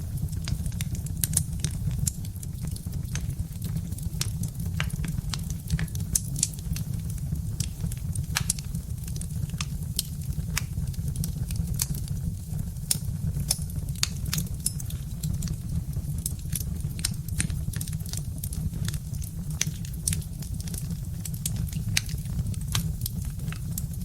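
Birch-wood log fire crackling, with irregular sharp snaps and pops over a steady low rumble.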